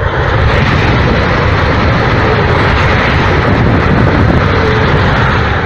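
A high-speed train passing at speed: a loud, steady rushing roar that starts fading near the end.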